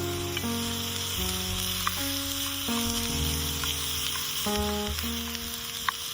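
Food frying in a pan with a steady sizzle and a few sharp pops of spattering fat, the loudest near the end, under background music.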